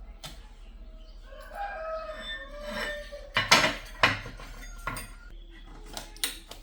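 A rooster crows once, a long bending call lasting about two seconds. It is followed by several sharp metallic clinks and knocks, the loudest two about halfway through.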